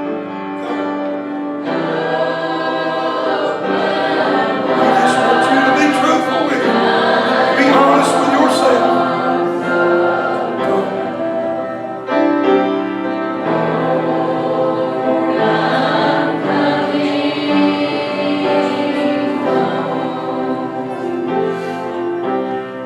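A choir singing a gospel hymn in slow, held chords with instrumental accompaniment.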